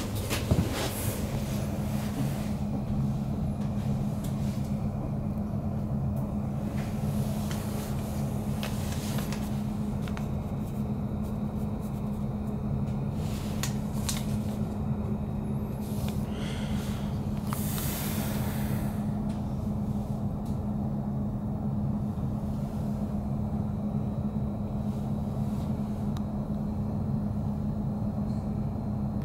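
Steady low hum inside a Stadler Flirt Sm5 electric commuter train standing at the platform, from its onboard equipment, with a constant low tone. A few faint clicks and knocks, and a brief hiss about two-thirds of the way in.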